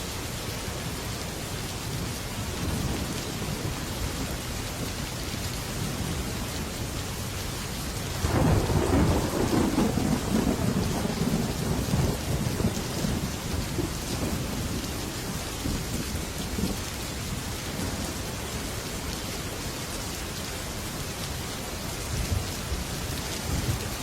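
Heavy rain falling steadily on a metal roof. About eight seconds in, a thunderclap breaks suddenly and rumbles away over several seconds.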